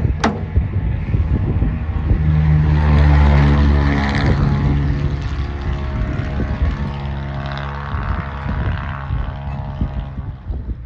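A sharp knock, then a loud, steady engine drone that swells about three seconds in and slowly fades, with wind rumbling on the microphone.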